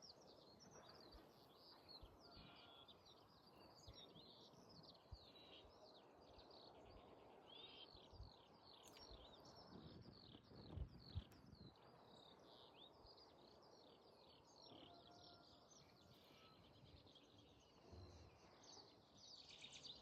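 Faint birdsong: many small birds chirping in quick, short falling notes over a quiet outdoor background. Two soft low thumps come about eleven seconds in.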